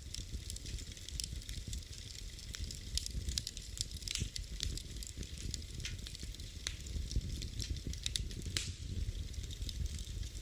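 Wood fire burning in a fireplace: irregular sharp crackles and pops scattered through a steady low rumble of the flames.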